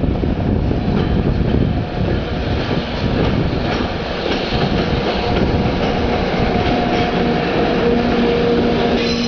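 JR Freight container train rolling past close by, a loud steady rumble of wagon wheels on the rails. From about halfway through, faint high squealing tones from the wheels come in over the rumble.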